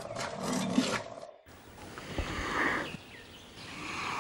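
Rhinoceros calling with low, rough grunts. The recording cuts off abruptly about a second and a half in and gives way to a quieter stretch holding one breathy call.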